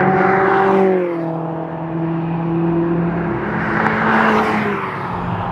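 SEAT Leon Cupra's turbocharged 2.0-litre four-cylinder engine pulling on track, its note falling twice as the revs drop, over tyre and road noise.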